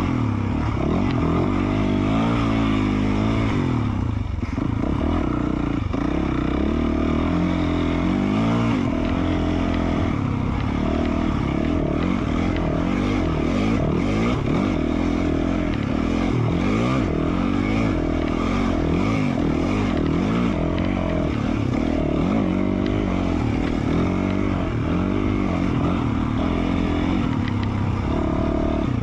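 2020 Yamaha YZ450F's single-cylinder four-stroke engine with an FMF Q4 slip-on muffler, revving up and down constantly as the throttle is opened and closed while riding a dirt trail.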